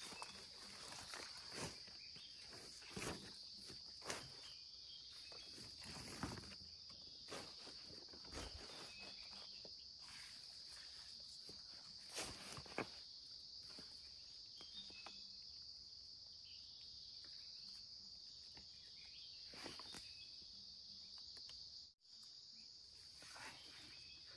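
Steady high-pitched chorus of insects, with irregular footsteps and crackles of leaves and twigs on the forest floor. The sound cuts out briefly near the end.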